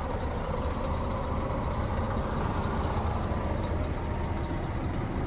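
Scania P380 tank truck's diesel engine running steadily with a low, even rumble.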